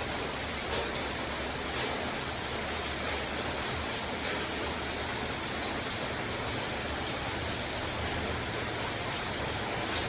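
Steady rain falling, an even hiss, with one sharp click near the end.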